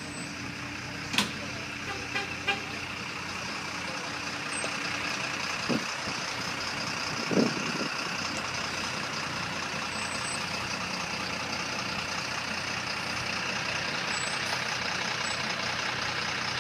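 Steady mechanical hiss and hum from the stopped circus train's passenger cars and their underfloor equipment. A low steady tone fades out about six seconds in. A few short sharp knocks come in the first eight seconds.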